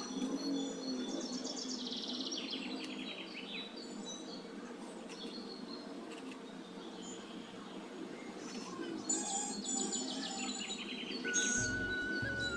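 Birds chirping, with two runs of quick falling trills, one about two seconds in and one about ten seconds in, over a steady low hum. A held high tone comes in near the end.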